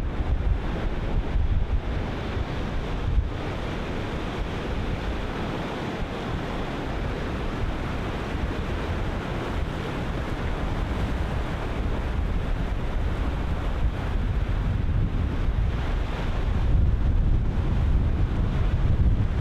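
Ocean surf breaking and washing in steadily, with wind buffeting the microphone as a heavy low rumble that swells again in the last few seconds.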